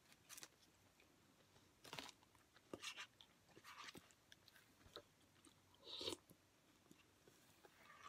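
Quiet, close-up chewing of a Wendy's homestyle chicken sandwich, with scattered soft crunches and wet mouth smacks about every second.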